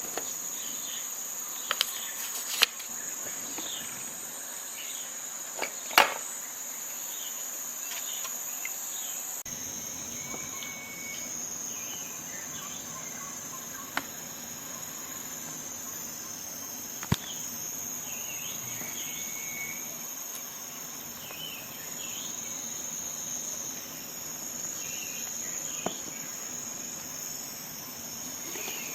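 Steady high-pitched chorus of crickets or other insects, with scattered short chirps over it. A few sharp clicks sound at irregular intervals; the loudest comes about six seconds in.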